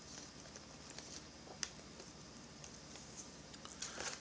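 Faint, scattered light clicks and taps from small chainsaw parts and hand tools being handled on a workbench, with a brief rustle of handling near the end.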